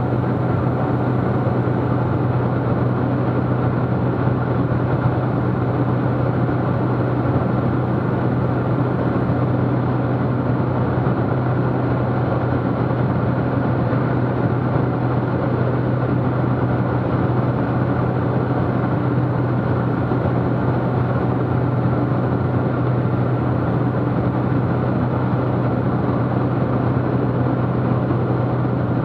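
Cessna T210's turbocharged six-cylinder piston engine and propeller droning steadily in flight, heard from inside the cabin, with a constant low hum and no change in pitch.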